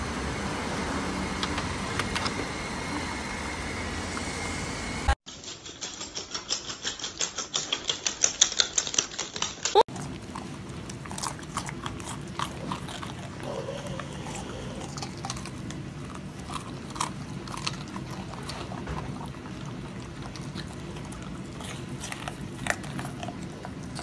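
Golden retrievers chewing raw broccoli: scattered, irregular crisp crunches. They follow a steady background noise in the first five seconds and then about five seconds of rapid rhythmic clicking, about five a second, that grows louder.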